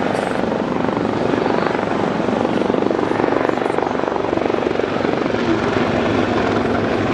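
Westland Lynx display helicopter flying close, a loud steady rapid chop of the rotor blades over the whine and rush of its turbines.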